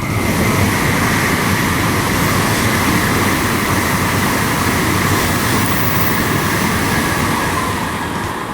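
Tokaido Shinkansen N700 series bullet train passing at speed: a loud, steady rush of wheel and wind noise that starts suddenly and eases off near the end.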